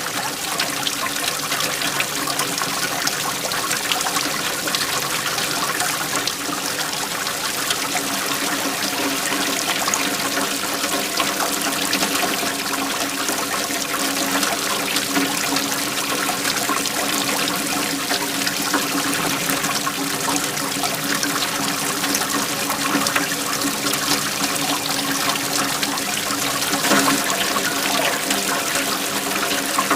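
Waterfall: water flowing in a steady, even rush.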